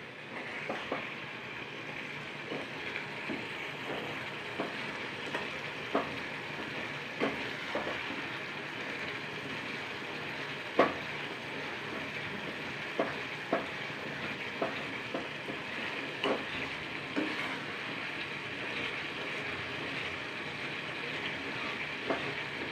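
Onion-tomato masala sizzling in oil in a kadhai while it is fried down until it begins to release oil. A metal ladle scrapes and knocks against the pan at uneven intervals as it is stirred, with the sharpest knock about halfway through.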